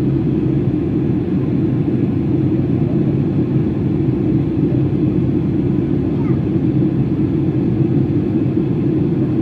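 Steady, even rumble of a Boeing 757-200's jet engines at takeoff power.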